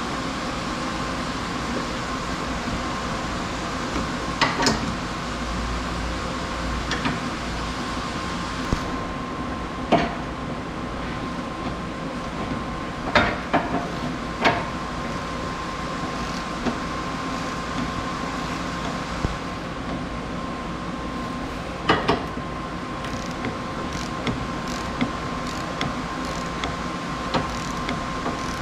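A steady machine hum with a constant tone runs throughout. Over it come scattered sharp metallic knocks and clinks of hand tools on a car's underside, a few loud ones spread through and a run of small ticks near the end.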